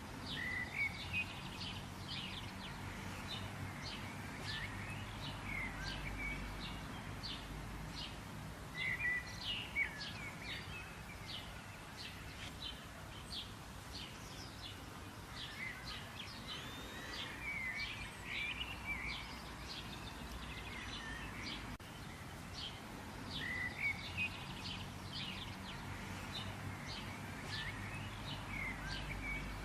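Wild birds singing and chirping, many short quick high notes and a few warbling phrases coming and going, over a steady low background rumble.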